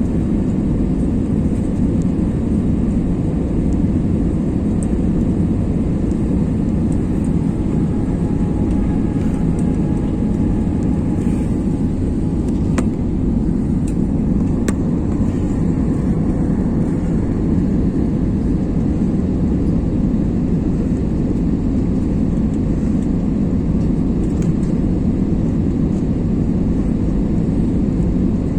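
Steady low roar of an Airbus A320 airliner in flight, its engines and rushing air heard from inside the passenger cabin, with two brief clicks about halfway through.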